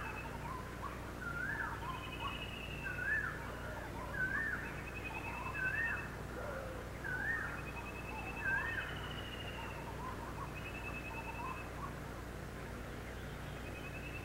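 Birds calling: a whistled up-and-down note repeated about every second and a half, with short fast high trills between, the repeated note dying away after about nine seconds. A steady low hum runs underneath.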